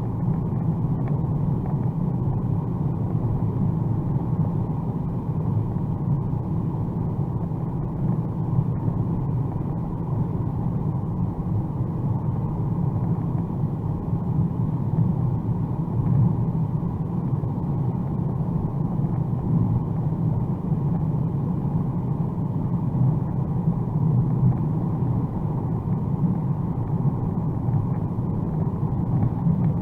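Steady low drone of a 2021 Mercedes-AMG A35 4MATIC+ driving on the autobahn, heard from inside the cabin: mixed road, tyre and engine noise, unchanging throughout.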